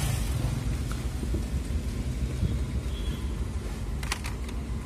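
Low steady rumble of a Hyundai Creta's 1.6-litre petrol engine idling on CNG, heard inside the cabin with the air conditioning running. Two short clicks come about four seconds in.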